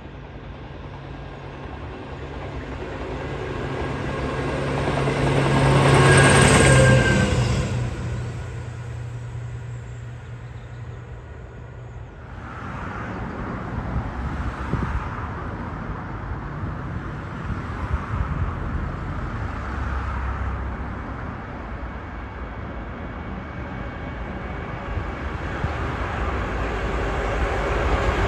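A rail vehicle passes close by, its engine and wheels swelling to a peak about six seconds in and then fading. After a sudden change, a stoneblower track-maintenance machine approaches on the line, its diesel engine and wheels running steadily and growing louder near the end.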